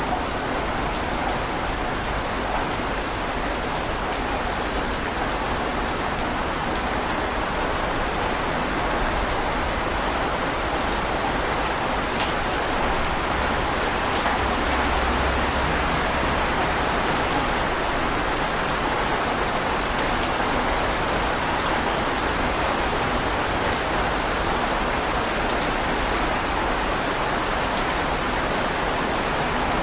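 Steady heavy rain, a dense even hiss of drops with a few sharper individual drop taps.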